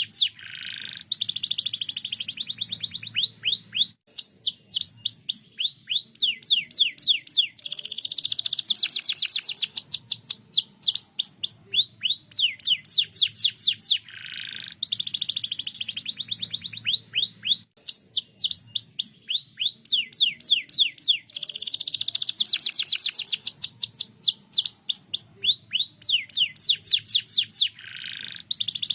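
Domestic canary singing a long, continuous song of fast trills made of rapid downward-sweeping notes, with only brief pauses, about halfway and near the end.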